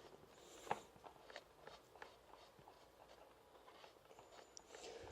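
Near silence with a few faint clicks and taps of handling, one sharper click about two-thirds of a second in; no engine running.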